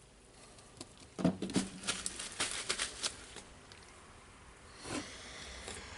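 A quick run of light clicks and taps from small metal parts being handled and fitted, as a spring goes into a rotary hammer drill's hammer mechanism, followed by a short rustle near the end.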